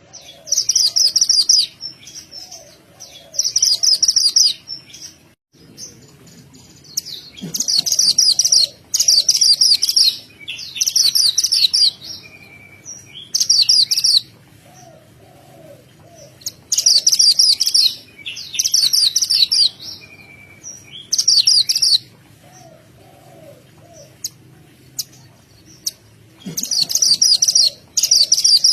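Mantenan gunung songbird in full, vigorous song: rapid high-pitched chattering phrases of about a second each, repeated over and over with short pauses between them. Fainter, lower chirps come in the gaps.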